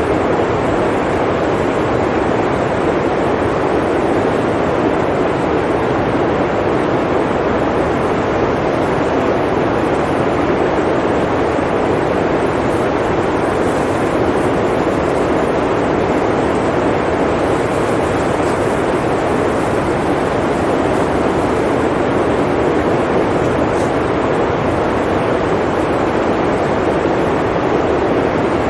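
Blizzard wind blowing steadily: a dense, even rush of noise, deepest in the low-middle range, with no gusts or pauses.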